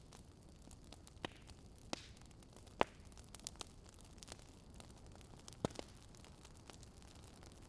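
Fire crackling: irregular sharp pops and snaps over a low steady hiss, the loudest pop about three seconds in.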